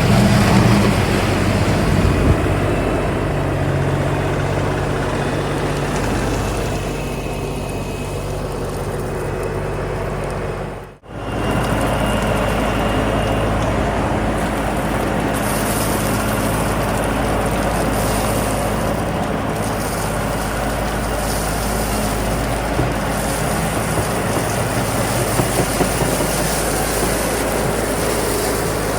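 Diesel engine of an LS MT357 cab tractor running steadily while grading the driveway. About eleven seconds in, the sound cuts out for a moment, then resumes with more hiss.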